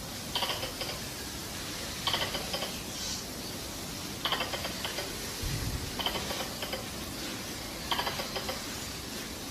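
Tree squirrel chatter call, the mating-season call used to lure wild squirrels: short bursts of rapid clicking, five of them about two seconds apart. A brief low thump comes just past the middle.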